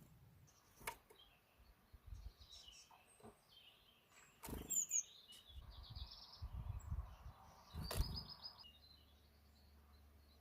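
Small birds chirping, with short calls and a couple of quick trills. A few sharp knocks stand out as the loudest sounds, about a second in, halfway through and near the end. Low rumbling noise comes and goes between them.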